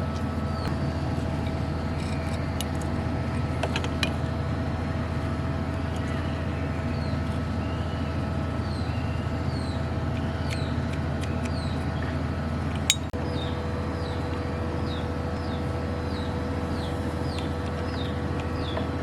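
Steady low mechanical hum with a sharp knock about two-thirds of the way through. In the second half a bird repeats short falling chirps about twice a second.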